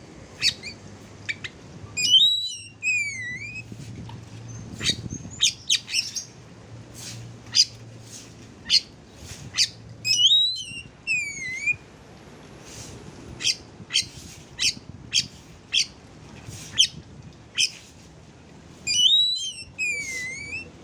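Oriental magpie-robin (kacer) song: one swooping whistled phrase, rising then falling, repeated three times about eight seconds apart, over a run of rapid, sharp chirps.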